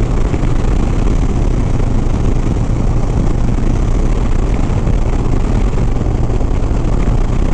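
Harley-Davidson Sport Glide's V-twin engine running steadily at highway cruising speed, about 77 mph, with a steady rush of wind and road noise over it.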